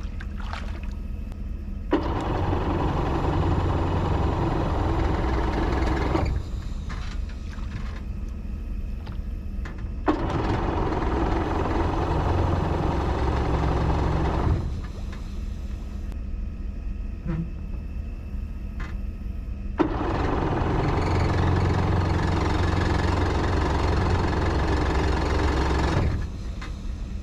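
Jet ski engine being cranked by its electric starter three times, each crank lasting about four to six seconds and starting with a click, without catching: the engine will not start even on a good battery.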